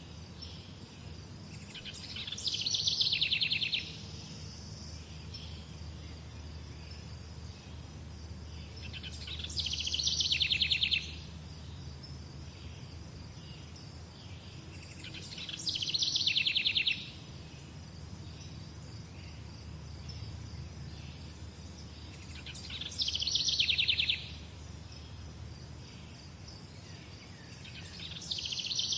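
A songbird repeating the same short, fast trill about every six to seven seconds, five times, each phrase falling slightly in pitch and stopping abruptly. Behind it is a steady low rumble and a faint insect-like hum.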